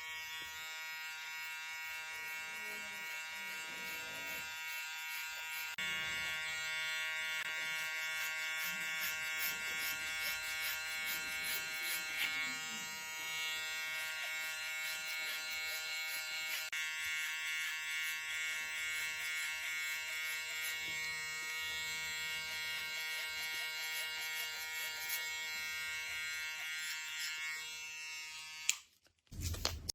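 Electric hair clipper buzzing steadily while cutting hair, then switched off shortly before the end.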